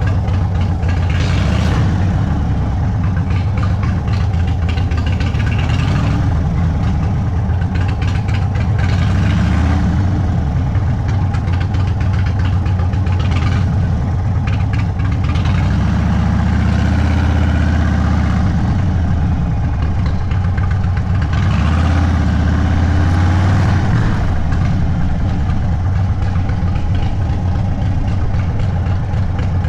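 A stage 2 Indian Sport Chief's Thunderstroke 116 V-twin running through a Sawicki Speed aftermarket exhaust at low cruising speed. The exhaust note is steady, with slight rises in pitch around the middle and again a little later as the throttle opens.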